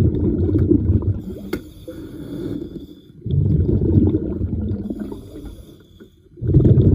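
Scuba diver breathing through a regulator underwater: a bubbling rumble of exhaled air, then a quieter hissing inhale, in a slow cycle. Exhales come at the start, about three seconds in, and again near the end.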